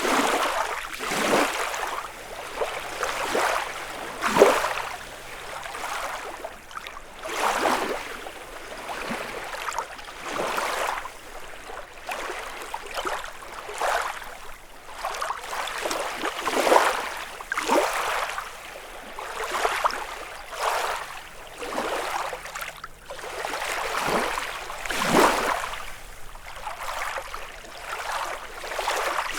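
Small lake waves lapping and splashing against the shore, in irregular swells every second or two.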